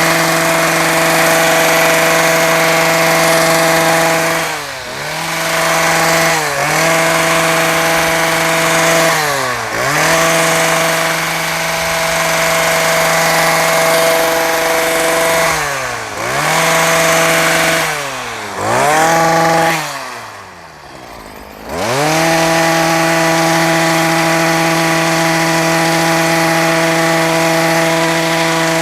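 Small engine of a handheld grass-cutting power tool running at high revs. It is let off briefly and revved back up several times, and drops to a low idle for about two seconds a little past two-thirds of the way through before revving up again.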